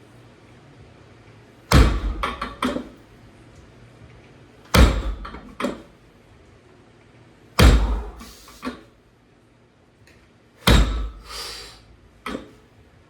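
Loaded trap bar deadlift set down on the floor four times, about three seconds apart. Each heavy thud is followed by a brief rattle of the plates.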